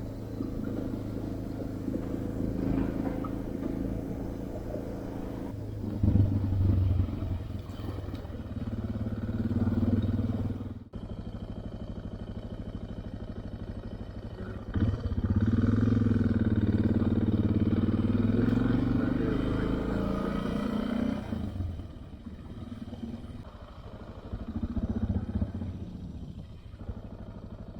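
Adventure motorcycle engine running while riding, its pitch rising and falling as it accelerates and eases off, with a brief break about eleven seconds in.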